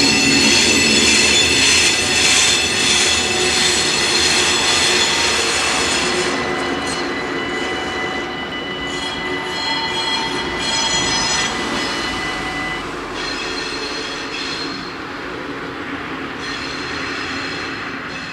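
A train running over the level crossing, its wheels squealing on the rails in high, wavering whines over a steady rumble. The sound slowly fades as the train moves away.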